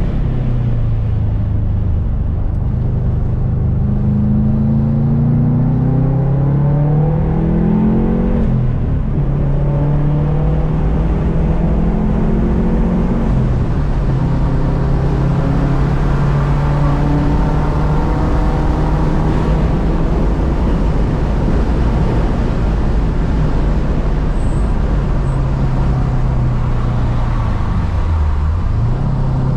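Subaru 2.5 RS's swapped, built EJ257 turbocharged flat-four driven hard on track. The revs climb, fall sharply at a gear change about a third of the way in, hold mostly steady, then dip briefly near the end and climb again.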